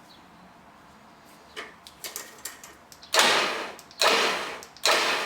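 Warn VR8000 EVO winch jogged in three short bursts about a second apart, each starting suddenly and dying away, after a few light clicks of cable and hardware.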